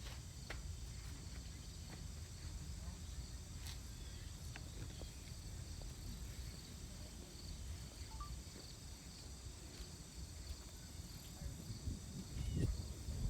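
Steady high insect chorus outdoors, over a low rumble that swells near the end.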